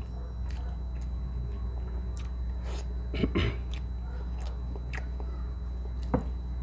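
Close-up chewing of a mouthful of milkfish and rice, with scattered short mouth clicks, a louder cluster about halfway through and a sharp click near the end, over a steady low hum.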